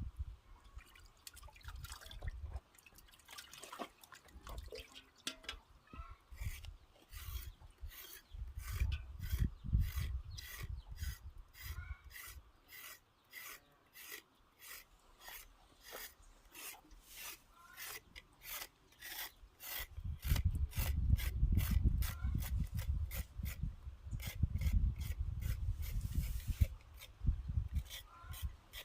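Steady, rhythmic scraping strokes, about two to three a second, with stretches of low rumble underneath.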